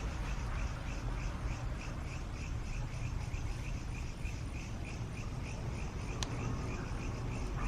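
Crickets chirping in a steady rhythm, about three chirps a second, over a low steady rumble, with one sharp click about six seconds in.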